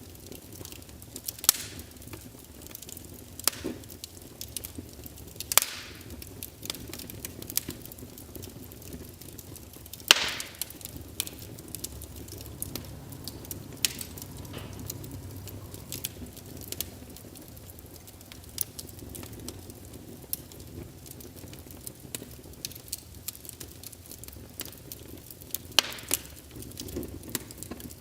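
Logs burning in a fireplace: irregular crackling with scattered sharp pops, the loudest about ten seconds in, over a faint steady sound of the flames.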